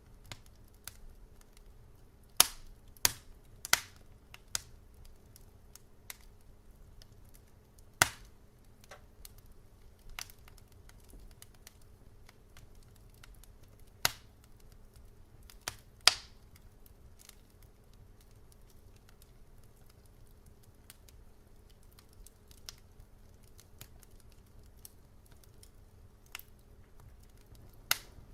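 Wood fire crackling: scattered sharp pops and snaps at irregular intervals, with a cluster of loud ones a few seconds in, two more around the middle and one near the end, over a low steady rumble.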